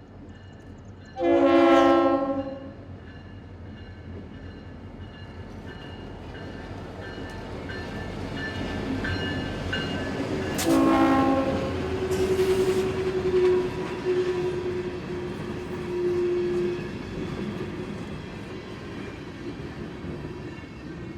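Train horn blowing a short chord blast about a second in, then a train drawing closer with a growing rumble and wheel clatter on the rails. A second horn blast comes about halfway through and is followed by a held tone lasting several seconds.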